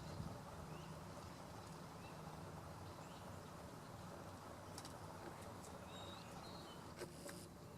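Faint, brief high bird chirps, a handful scattered a second or so apart, over a steady low hum, with a couple of soft clicks in the second half.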